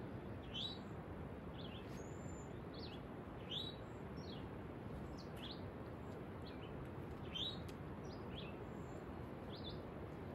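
Songbirds calling: short, high chirps, most sliding down in pitch, every second or so over a faint steady hiss.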